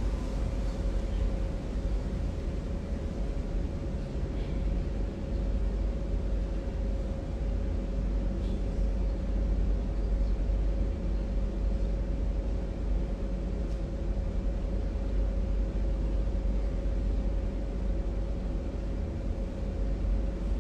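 Steady low rumble and hiss with a constant mid-pitched hum running under it, unchanging throughout; no voice.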